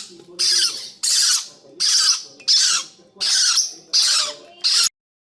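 Pet bird squawking over and over in harsh calls of about half a second each, roughly seven in a row, cut off short near the end.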